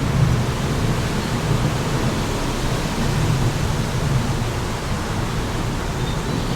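Wind blowing steadily, a rushing noise with a low rumble that swells and eases a little.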